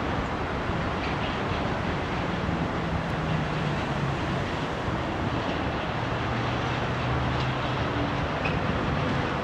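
PKP ET42 electric freight locomotive hauling a train of gondola coal wagons, approaching with the steady noise of wheels on the rails and a low hum.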